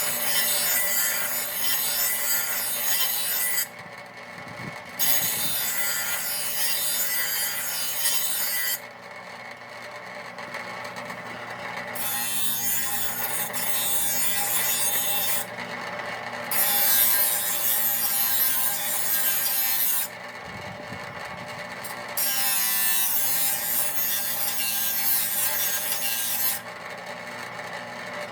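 A power grinder sharpening a steel zero-turn mower blade: five passes of hissing grinding, each a few seconds long, with short gaps between them in which only the steady hum of the grinder's motor is left.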